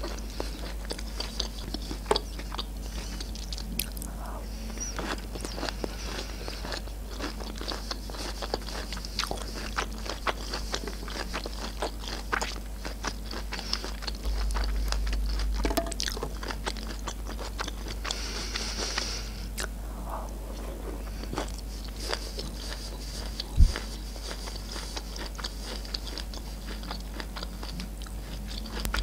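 Close-miked chewing of canned sweet corn kernels: wet mouth clicks and soft crunching, with a metal spoon scraping the steel tray as she scoops. One sharp knock about three-quarters of the way through stands out as the loudest sound.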